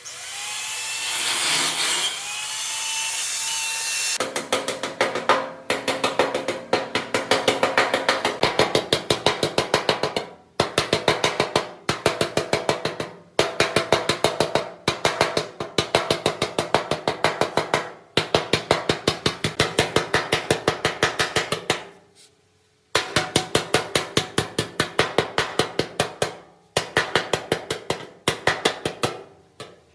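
A power tool whirring for about four seconds, then a hammer striking metal in fast, even runs of blows, several a second, with short pauses between the runs and the metal ringing after each blow.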